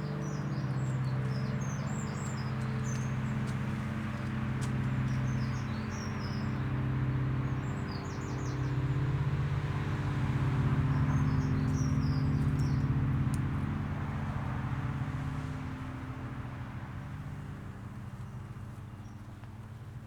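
Small garden birds chirping in short high phrases over a steady low hum of road traffic. A car passes, swelling about ten seconds in and fading away toward the end.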